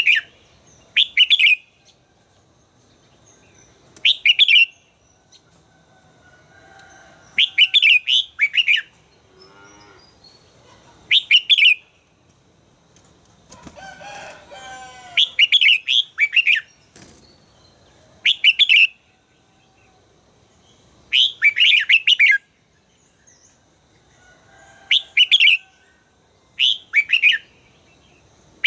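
Red-whiskered bulbul song: short, loud, bright whistled phrases repeated every two to four seconds, with fainter, lower warbling bird calls in between.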